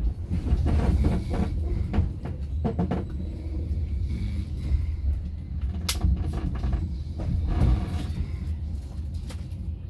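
Passenger train running, heard from inside the coach by an open window: a steady low rumble of wheels on rails with scattered knocks and clanks, the sharpest about six seconds in.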